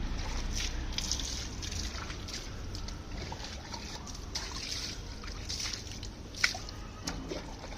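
Water trickling and sloshing while a dog is bathed, with scattered small splashes and one sharper, louder splash about six and a half seconds in.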